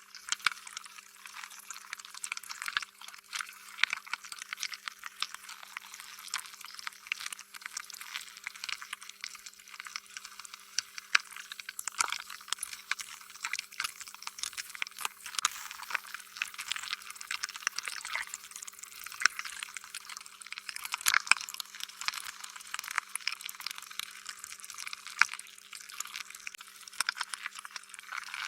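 Slime being squished and worked by hand, a dense run of small wet clicks and pops.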